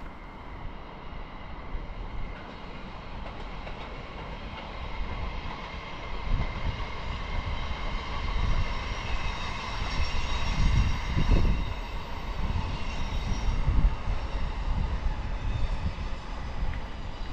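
Train passing, with a steady electric whine of several high tones that grows louder through the middle and eases near the end, over an uneven low rumble.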